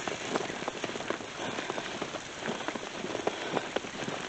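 Wet snow crackling and pattering close by, a dense, irregular run of small ticks over a steady hiss.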